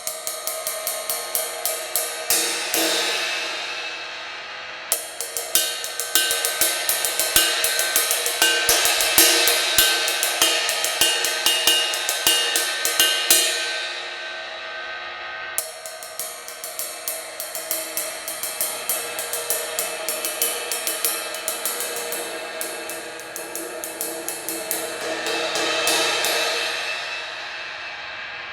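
Zildjian A Custom 20-inch ping ride cymbal struck over and over in a quick, steady pattern, the ringing swelling up twice, as a sound test after its crack has been repaired.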